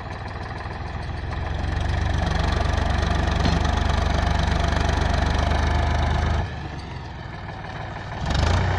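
Tractor engine running. Its sound grows louder and heavier about a second and a half in, falls back about six and a half seconds in, and picks up again near the end.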